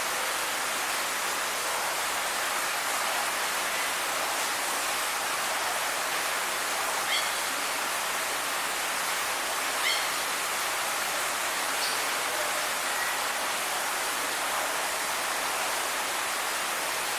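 Steady, even rushing noise like running water, with a few faint short high chirps, about 7 and 10 seconds in and once more near 12 seconds.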